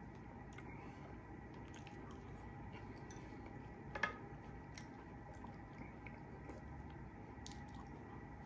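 Chewing and biting food, with a sharp clink about four seconds in as a fork strikes the glass bowl.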